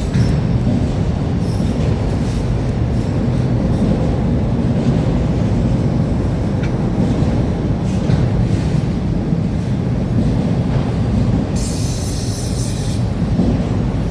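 Freight train rolling past with a steady low rumble of wheels on rail, and a high-pitched squeal of steel wheels against the rail for a second or two near the end.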